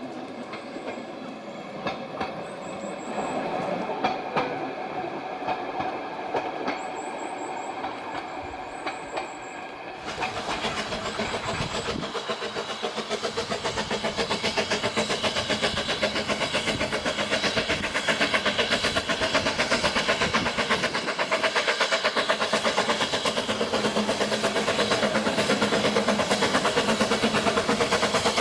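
Narrow-gauge steam train. For the first ten seconds it is quieter, with a few high chirps of birds. Then it turns suddenly to a loud, fast, even beat of the train running, which grows a little louder.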